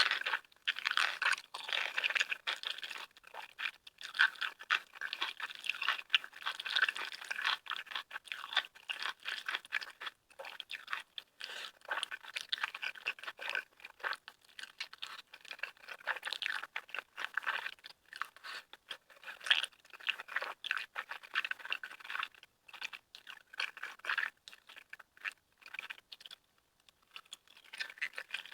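Close-miked chewing, a dense run of crunching and wet mouth clicks, with a brief lull near the end.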